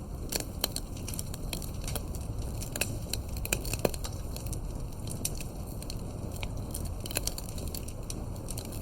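Campfire with burning firewood crackling, giving irregular sharp pops over a steady low rush of the flames; one pop stands out a little before the middle.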